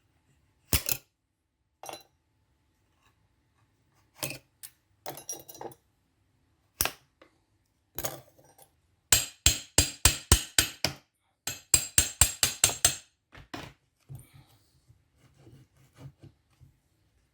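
Light metallic tapping on an Alfa Romeo 147 gear lever, driving the worn plastic bush out of the gear lever tower's seat. A few separate taps come first, then two quick runs of about seven taps each, then faint clicks.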